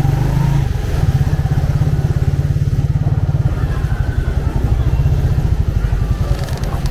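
Motorcycle engine running steadily at low speed, a close, rapidly pulsing low rumble, with faint street traffic behind it.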